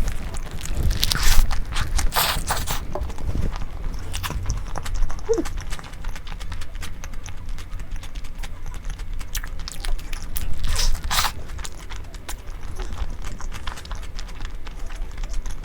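Close-miked eating: food being bitten and chewed, with irregular crunches and small clicks.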